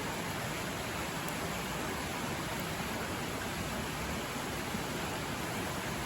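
A river rushing steadily, a loud, even wash of flowing water.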